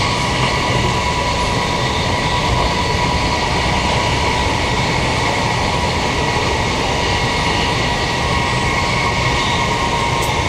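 Queensland Rail electric multiple unit train running steadily at speed: a continuous rumble of wheels on rail with a steady high hum over it.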